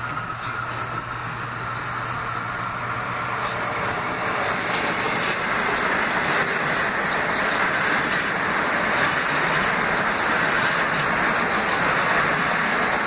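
Metro-North electric commuter train passing through the station at speed: a steady rush of wheels on rails that builds over the first several seconds as the train arrives, then holds loud as the cars go by.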